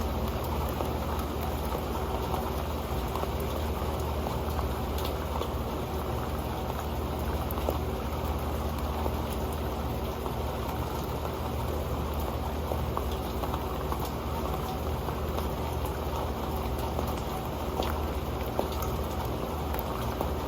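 Steady rain drumming on an old metal pan, a dense patter of drops with scattered sharper ticks, fullest in the low and middle range.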